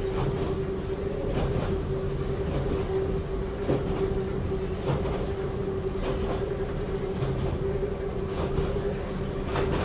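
Inside the Kambara Railway's Moha 31 electric railcar running at steady speed: a constant rumble of wheels on rail with a steady hum, and a few short knocks as the wheels pass rail joints.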